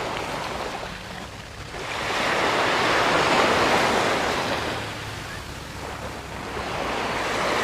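Sea waves breaking and washing up a sand beach, the rushing swelling and fading with each wave, with some wind on the microphone.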